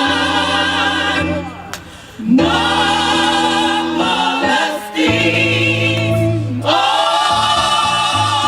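Gospel choir singing long held chords in phrases, the upper voices wavering with vibrato over steady low notes. There are brief breaks between phrases, about one and a half seconds and five seconds in.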